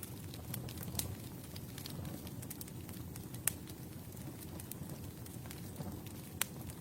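Wood campfire burning: a steady low rumble of flames with scattered sharp crackles and pops, two louder pops about three and a half and six and a half seconds in.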